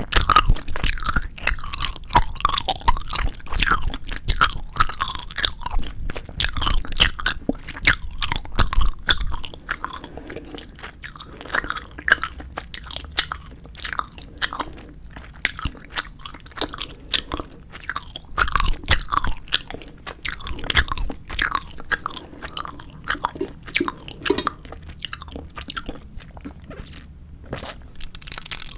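Close-miked chewing of 4D gummy jelly candy: a steady run of squishy, sticky chews and small crunches with wet mouth sounds, busiest in the first ten seconds.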